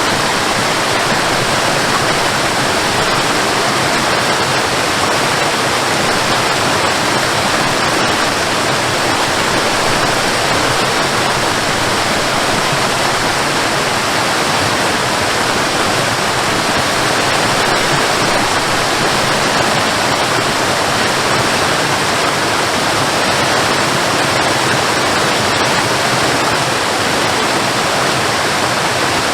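Waterfall: a steady, loud rush of falling water, even and unbroken throughout.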